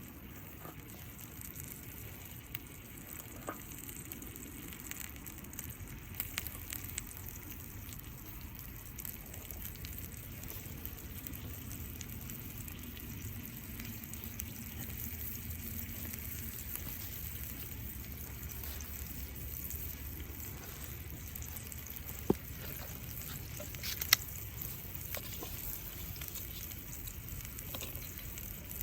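Hamburg steak sizzling steadily in a cast-iron skillet over a wood fire, with a few sharp pops, the loudest about 22 and 24 seconds in.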